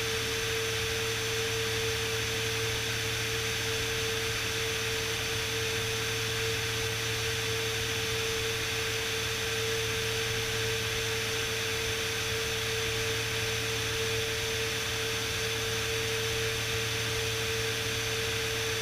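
Beechcraft Bonanza S35's engine and propeller droning steadily in flight, a constant cabin noise with a steady hum tone, unchanging throughout.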